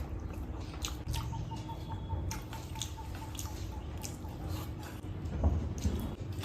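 Close-miked eating sounds of chicken curry with rice: soft wet clicks and smacks scattered irregularly over a steady low hum, with a louder burst about five seconds in.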